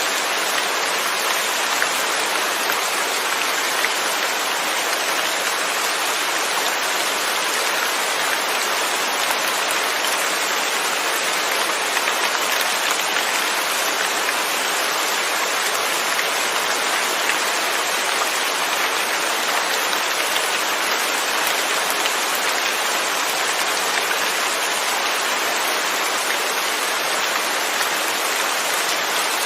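Steady, even rain falling with no thunder.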